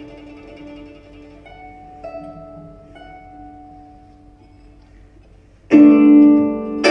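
Live ethnic folk ensemble music: a soft held note with a few sparse plucked-string notes, then the full ensemble comes in loudly with a chord near the end.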